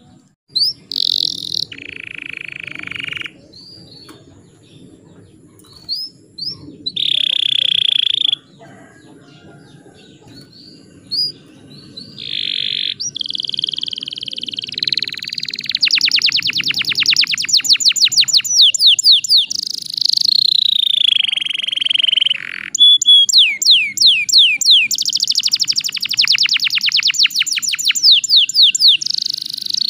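Domestic canary singing: short whistled notes and buzzy phrases with pauses between them at first, then from about halfway in, long rapid trills and rolling phrases sung almost without a break.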